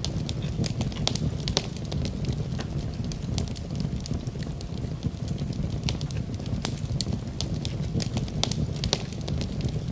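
Wood fire in a fireplace crackling, with frequent sharp pops scattered over a steady low rumble.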